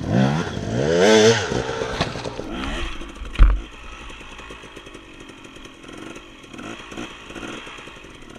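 Dirt bike engine revving up and down in quick bursts, then dropping to a quieter, low-revving run; a sharp thump about three and a half seconds in is the loudest sound.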